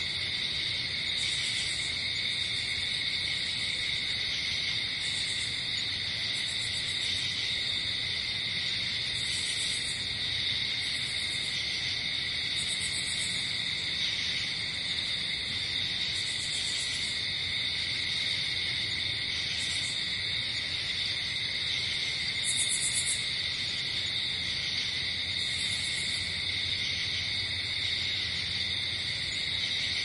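Night-forest ambience: a steady chorus of insects trilling at a high pitch, with a still higher chirping that comes in short spells every two to three seconds.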